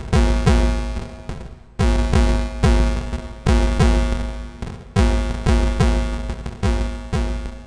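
Electronic drum hits from an Erica Synths Pico Drums module processed through a Befaco FX Boy effects cartridge: a rhythmic pattern of deep, pitched booms, each hit bending in pitch and decaying over a fraction of a second.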